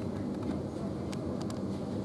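Steady low mechanical rumble and hum, with a few light clicks a little after a second in.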